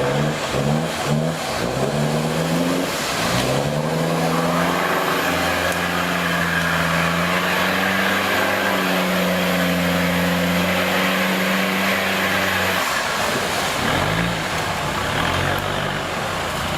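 Off-road 4x4's engine revving in several quick blips, then held at high revs for about nine seconds before dropping off sharply, with more short blips of throttle near the end.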